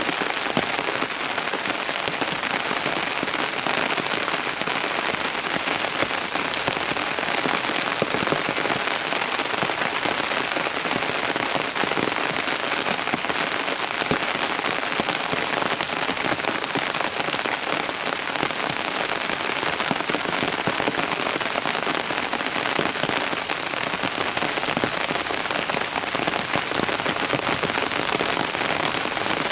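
Steady rain falling, a dense, even hiss of many small drops striking surfaces, unchanging throughout.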